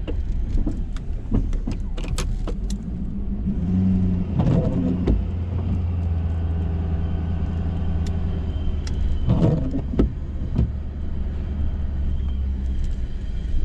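Ford F-350 pickup's engine running steadily, with scattered clicks and knocks and a couple of louder bumps about four and nine seconds in.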